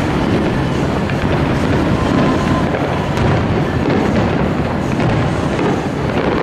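Fireworks display: a dense, steady rumble of shell bursts running together, with no single bang standing out.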